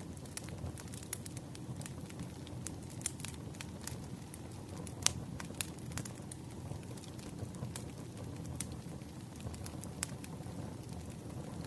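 Wood fire crackling: a steady low rumble of burning logs with frequent sharp pops and snaps, the loudest pop about five seconds in.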